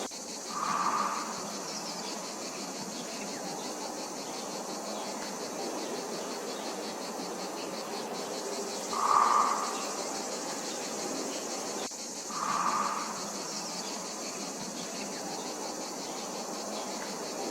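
Steady high-pitched insect chorus with a fine, rapid pulse. Three short, louder calls come through it: about a second in, past the middle, and about two-thirds of the way through.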